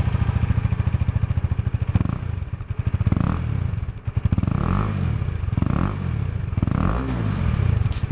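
KTM Duke 250's single-cylinder 249 cc engine idling, then revved in short throttle blips about once a second from about two seconds in, each rising and falling back to idle.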